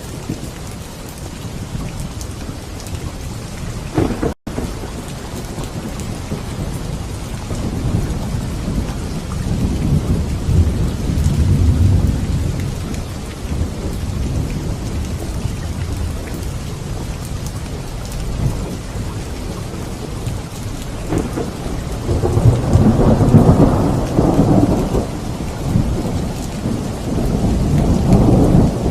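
Heavy rain falling steadily with rolling thunder. The rumbles swell about a third of the way in and are loudest about three quarters through, with another near the end. The sound cuts out for an instant about four seconds in.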